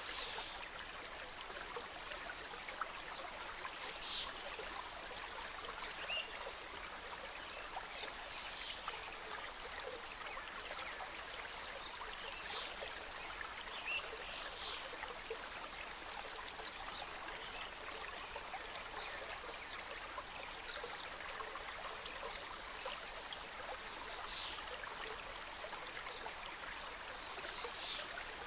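A small mountain stream cascading over rocks in a steady, even rush of water. Short high bird chirps break in every few seconds.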